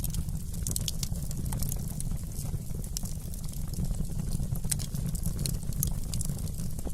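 Wood fire burning in a fireplace: a steady low rumble of the flames with frequent small sharp crackles and pops of the burning logs.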